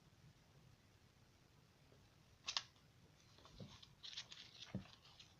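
Quiet handling of a paperback book: a crisp paper rustle about halfway through, then soft rustling and a light thump near the end.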